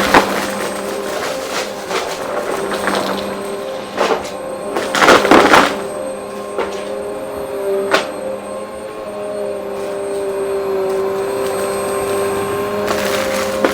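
Vacuum cleaner running steadily with a motor whine, with crunching and rattling clicks as debris is sucked up, the loudest burst about five seconds in.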